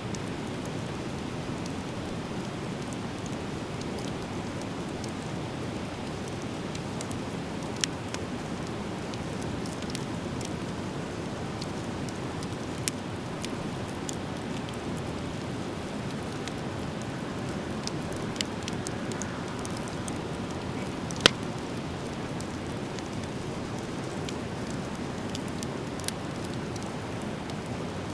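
Driftwood fire burning with a steady rushing hiss and scattered crackles and pops, one sharp pop louder than the rest about two-thirds of the way through.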